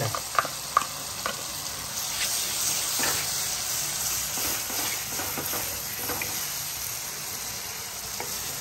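Onion-tomato masala sizzling in hot oil in a pan and being stirred with a wooden spatula, a steady frying hiss. A few sharp clicks in the first second or so as the crushed tomato is scraped in.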